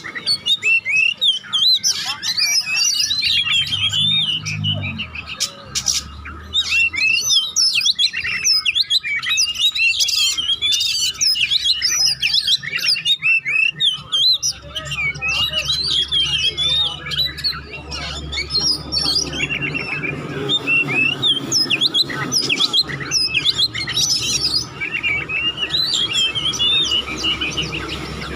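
Oriental magpie-robin (kacer) singing a fast, unbroken string of varied chirps and whistles, the jumbled "konslet" style of song played to stir other kacer into singing.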